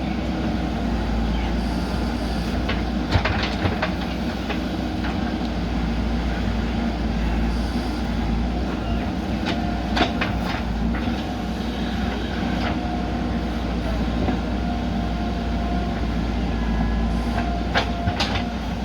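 JCB backhoe loader's diesel engine running steadily under work, with a few sharp metallic clanks from the digging gear now and then.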